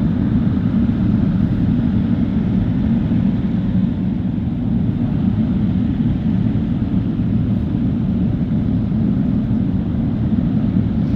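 Emirates Airbus A380-800 departing, its jet engines making a steady, low rumble.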